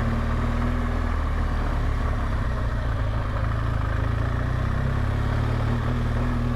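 BMW R1200GSA motorcycle's boxer twin engine running steadily.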